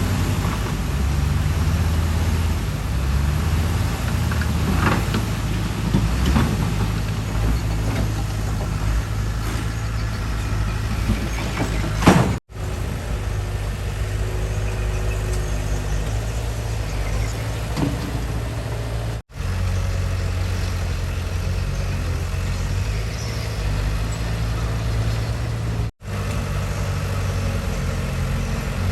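Heavy diesel engine running steadily at low revs, with a sharp clank about twelve seconds in. The sound drops out briefly three times.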